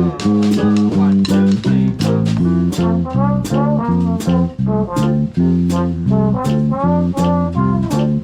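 Swing band playing: horns carry the tune over a walking bass line and a steady drum and cymbal beat.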